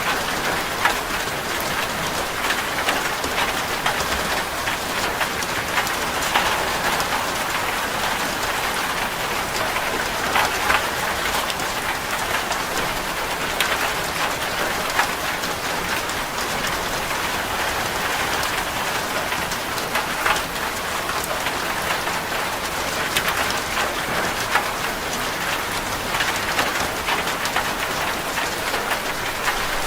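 Steady rain falling on a corrugated zinc roof, with many sharp drop hits on the metal sheeting standing out from the constant hiss.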